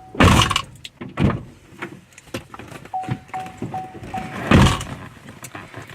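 A car's door-open warning chime, a repeating single beep about two and a half times a second, with heavy thuds of car doors shutting at the start and about four and a half seconds in; the chime stops just before the second thud.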